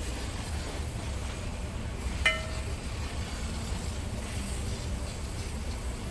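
A single sharp metallic clink about two seconds in, ringing briefly at several pitches, over a steady low hum.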